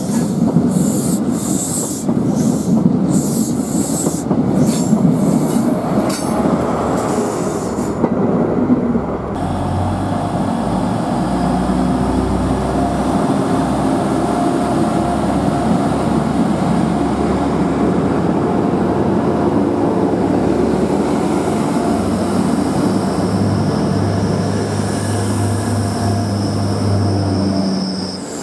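A train in the station: a run of clicks over wheel noise for the first several seconds, then a steady low hum with a few held tones.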